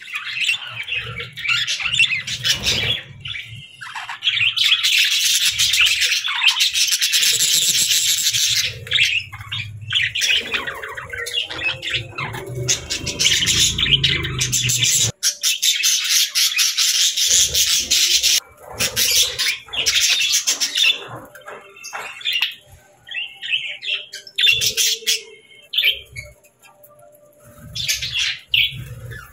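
A flock of budgerigars chirping and chattering, a dense, busy stream of calls that thins out into scattered chirps in the later part.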